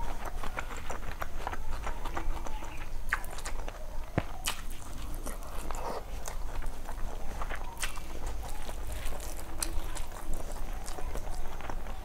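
Close-miked eating sounds of someone eating rice and curry by hand: chewing and wet mouth clicks, and fingers working and squishing rice on a steel plate. There are scattered sharp clicks throughout and no steady rhythm.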